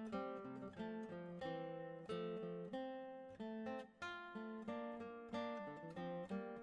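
Background music: a solo acoustic guitar plucking an early-music piece, with a melody and bass line of notes struck one after another and left to ring.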